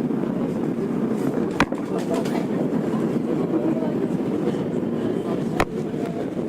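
Interior noise of a Tokyo Metro 02 series subway car: a steady low rumble with two sharp clicks about four seconds apart.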